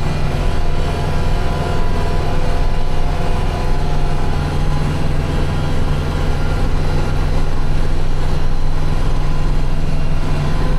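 Vehicle engine running steadily at an even speed.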